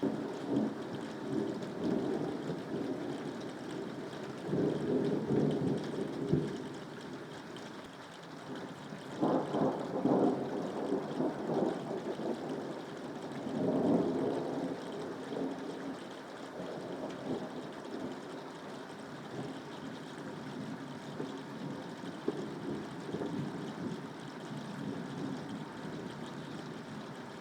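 Steady rain with several rolls of thunder rumbling in swells, the strongest near the middle, easing off in the last part.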